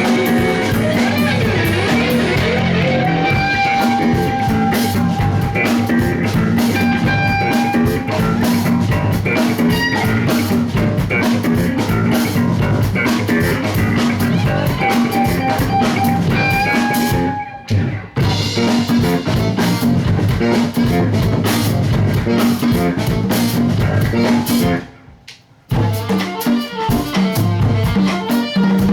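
A rock band playing live, with a drum kit and guitar. The whole band stops dead briefly twice, once about two-thirds of the way through and again for nearly a second near the end, then comes straight back in.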